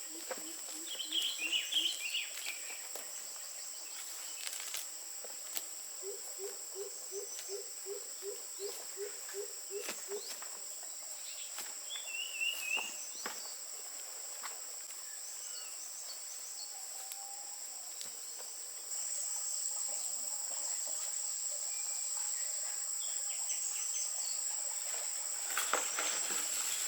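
Steady, high-pitched chorus of insects, growing louder about two-thirds of the way through. A few bird chirps come over it, and for about four seconds a low call repeats roughly twice a second.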